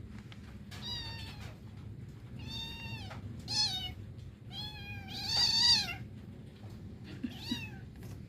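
Domestic cat meowing about five times in a row, high-pitched calls of a half-second to a second each, the longest and loudest about two-thirds of the way through.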